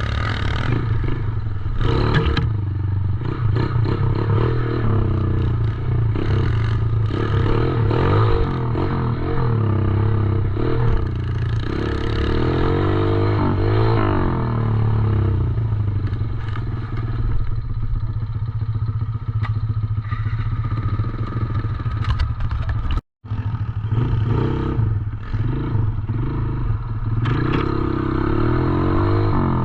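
Small single-cylinder 110cc dirt bike engine running and revving up and down as it is ridden, with some clatter. The sound drops out completely for a split second about two-thirds of the way through.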